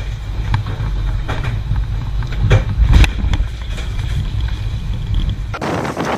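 Strong storm wind buffeting the microphone in a heavy low rumble, with scattered clatter and knocks. About five and a half seconds in, the rumble cuts off and a hissing rush takes over.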